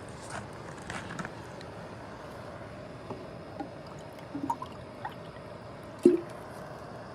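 Steady hiss of a small backpacking canister stove (MSR PocketRocket) burning under a pot. Scattered light clicks and knocks of gear being handled sit over it, with one louder knock about six seconds in.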